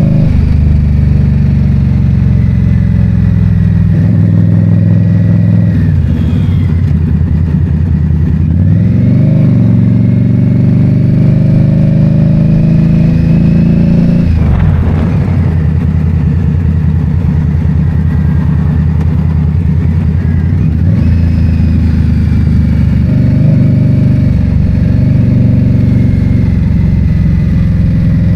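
2022 Indian Scout Bobber's V-twin engine running while riding, its note dropping and climbing again several times with throttle and gear changes, over steady road and wind noise.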